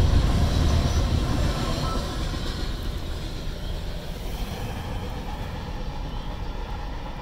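Double-stack intermodal freight train's last cars rolling past on steel rails with a heavy, low rumble. The rumble fades steadily from about two seconds in as the end of the train moves away.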